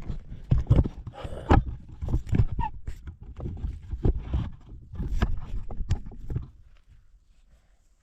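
Irregular knocks, thumps and rustling as sticks of firewood are handled and stacked on a campfire being lit. The sound stops about six and a half seconds in.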